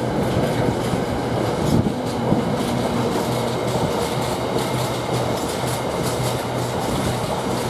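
Container wagons of a freight train, mostly empty, rolling past in a steady rumble with a rhythmic clatter of wheels over the rail joints.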